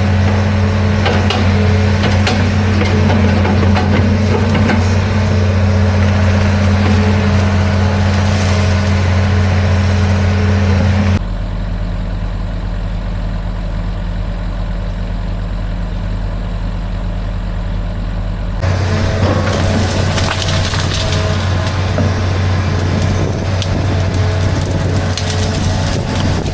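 Komatsu excavator's diesel engine running hard while the machine crushes and snaps trees and brush, with wood cracking and splintering over the steady engine drone. For several seconds in the middle the sound abruptly turns duller, leaving mostly a low engine hum, before the crackling returns.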